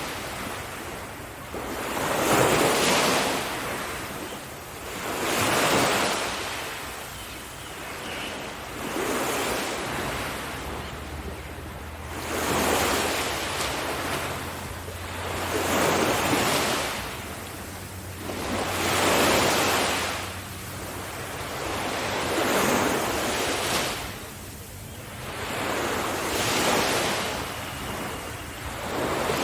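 Sea waves breaking on a beach, the surf swelling and falling back about every three to four seconds, with some wind on the microphone.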